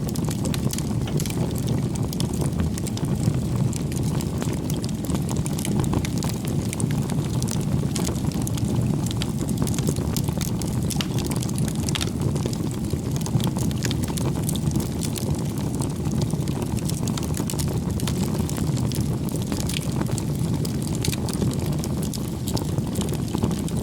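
Bonfire of firewood burning: a steady low rumble with frequent sharp crackles and pops of the wood throughout.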